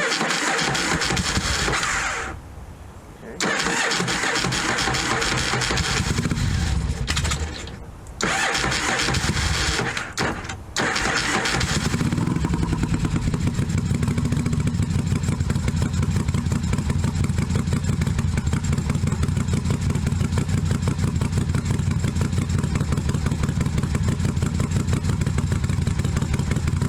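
1982 Yamaha Virago XV750 air-cooled V-twin being cranked on its electric starter in three tries, catching about eleven seconds in and then idling steadily on choke, after a carburettor float-needle repair.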